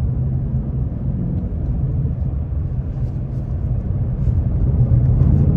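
2024 Ford Mustang GT's 5.0 L Coyote V8 and active exhaust running steadily while driving, a low rumble that grows slightly louder about four and a half seconds in.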